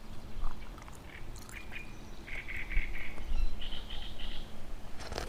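A bird calling in quick runs of short notes, a second, higher run following straight after the first, over wind rumbling on the microphone. A sharp knock comes at the very end.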